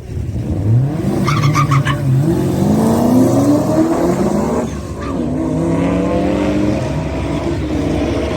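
Rotary-engined car accelerating hard, its engine pitch rising, dropping sharply at a gear change about two-thirds of the way through, then rising again. A short burst of high crackling noise, possibly tyre noise, comes about a second in.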